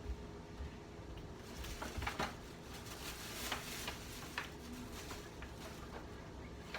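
Faint handling noises: soft rustling, loudest between about one and a half and four seconds in, with a scattering of light clicks and taps.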